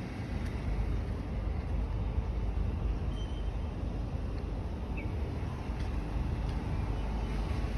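Steady low rumble of outdoor background noise, with a few faint short high chirps about three and five seconds in.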